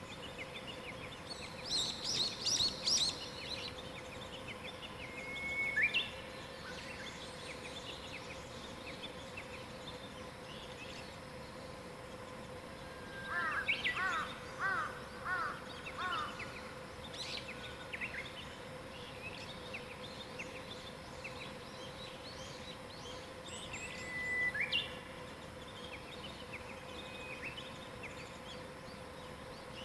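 Wild birds singing in separate phrases of whistled and rising notes, with pauses between them, over a faint steady hum.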